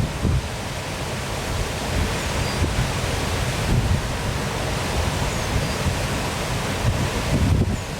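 Waterfall rushing steadily in a constant even roar of falling water, with wind buffeting the microphone in low gusts, heaviest near the end.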